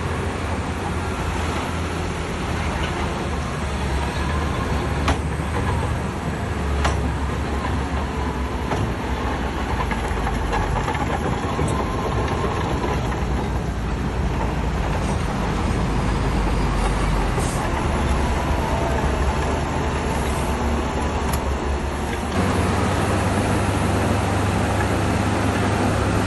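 Diesel engine of a Shantui bulldozer running steadily under load while pushing stone, with a few sharp metallic clanks. About 22 seconds in it suddenly gets louder, with a stronger low rumble.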